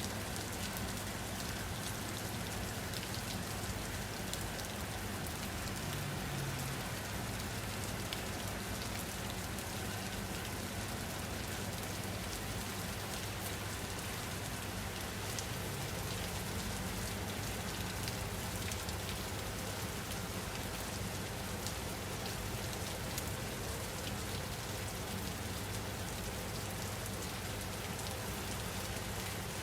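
Steady rain falling on a surface, an even hiss with many small drop ticks over a constant low rumble.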